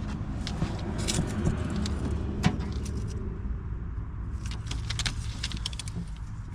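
The 1989 GMC Sierra's engine being cranked by its starter without catching, a steady low rumble with scattered metallic clicks and rattles and one sharper click partway through. This is the truck's no-start: it tries to fire but won't run.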